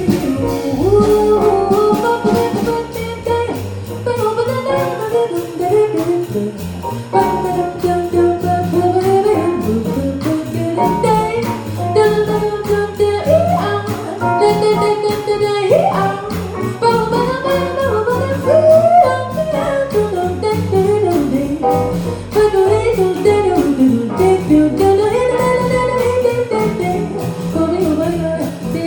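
Small jazz band playing a swing tune live: a melodic lead line winding over piano, bass and drums, with a steady cymbal beat.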